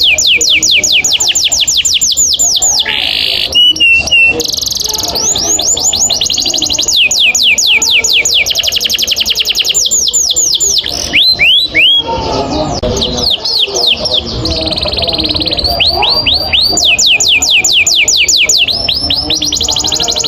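Male canary singing long rolls: trains of rapid, evenly spaced falling notes, broken by short pauses and a brief held whistle about three to four seconds in.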